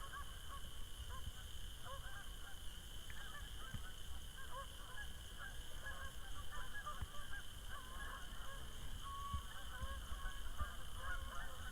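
A flock of geese honking again and again over a low rumble.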